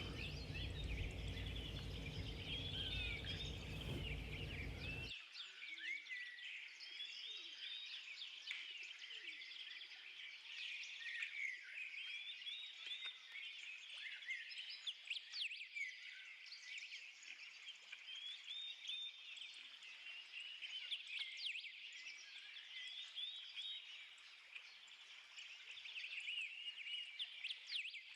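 Many small birds chirping and twittering in a dense, faint chorus of short, quick calls.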